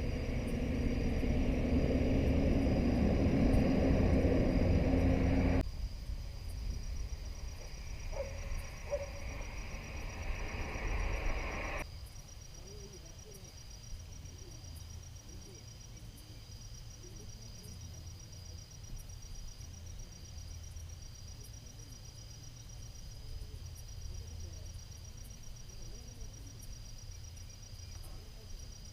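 A small-displacement motorcycle engine runs with a steady low rumble for about six seconds, then cuts off abruptly. After a quieter stretch, crickets or other insects trill steadily in a fast pulsing rhythm, with faint low calls in the background.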